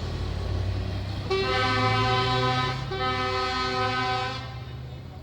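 Truck air horn sounding two long blasts, the second following right after the first, over the low rumble of truck engines.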